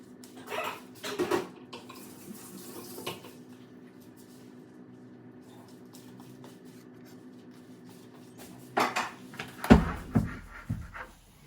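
Dishes and cutlery clattering and clinking in short bursts, louder and busier near the end, over a steady low hum that stops about ten seconds in.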